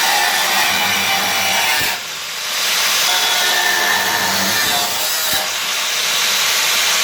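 Power tool's cutting disc slicing through car-body sheet steel, a steady harsh cutting noise that eases off briefly about two seconds in as the disc lifts, then bites again.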